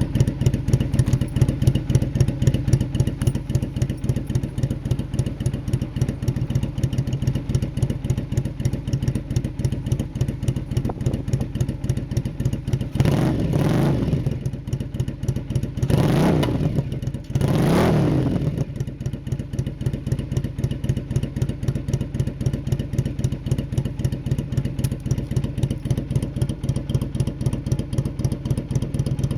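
Yamaha Drag Star Classic 400's V-twin idling through a Gordon Fish muffler with an SU carburettor, with a steady pulsing beat, and the throttle blipped three times about halfway through. The uploader judges the carburettor setting at this point to be running too lean.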